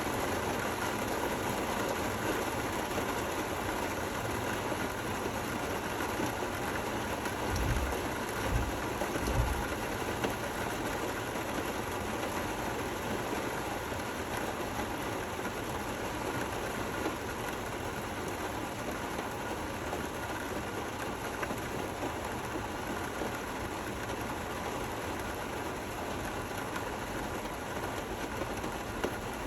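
Gentle rain falling steadily, an even hiss, with three brief low thumps about eight seconds in.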